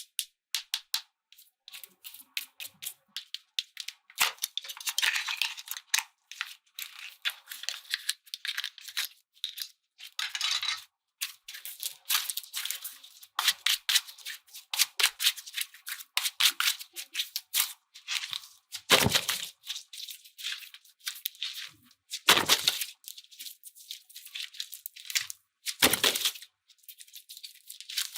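Slime being squeezed and pressed by hand, giving dense runs of crackling clicks and crunches broken by short silent gaps. Three louder, fuller crunches come about two-thirds of the way in and near the end.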